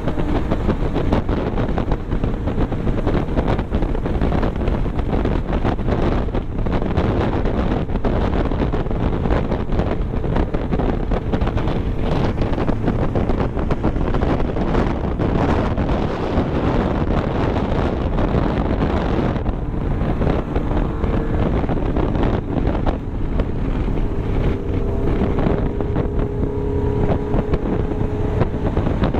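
Steady wind rushing over the microphone at road speed, with vehicle engine and road noise running underneath.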